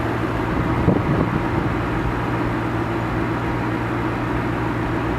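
Ford Mustang 5.0 V8 engine idling steadily, with a brief knock about a second in.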